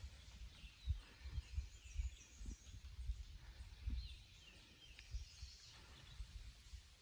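Quiet forest ambience: a songbird calling a few short down-slurred notes, twice in small groups, over irregular low rumbling thumps.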